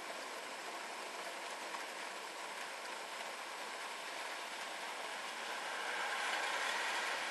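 Rain falling steadily during a thunderstorm, a continuous hiss that grows louder near the end.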